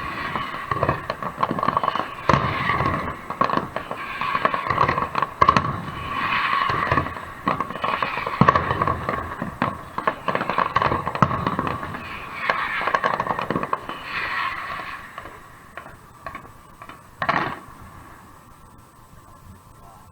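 Aerial fireworks bursting in quick succession with dense crackling, thinning out after about fifteen seconds, with one more loud burst near the end.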